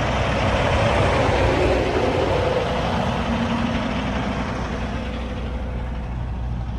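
Semi-truck diesel engine idling with a steady low hum, and a hiss over it that eases off after about three seconds.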